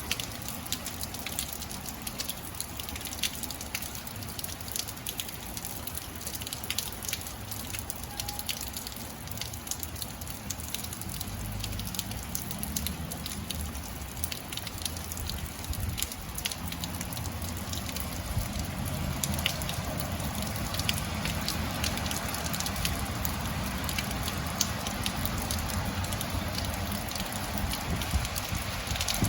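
Steady rain falling, with many close, sharp drop hits pattering over a continuous hiss and a low rumble underneath.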